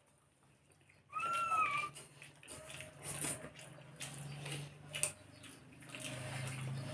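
Wet mouth sounds of someone eating, with scattered clicks and smacks. About a second in there is a short gliding, high-pitched voice-like sound.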